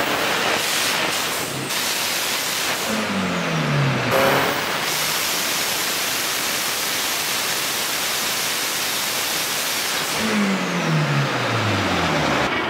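Mitsubishi Lancer Evolution IX RS's turbocharged 2.2-litre four-cylinder running hard on a chassis dyno: a loud, rushing run with the revs falling steeply twice, around three seconds in and again near the end. The pull was aborted because a heater core hose blew off and sprayed coolant.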